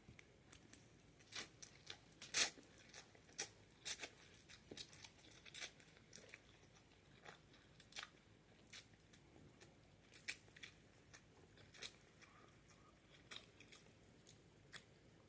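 A person chewing a mouthful of Buldak spicy instant ramen noodles, faint and close: irregular short wet mouth clicks and smacks, with the loudest one about two seconds in.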